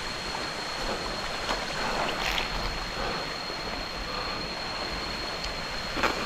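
Steady rush of falling and flowing water from a jungle waterfall and stream, with a thin steady high tone over it. A few faint clicks, with a sharper one near the end.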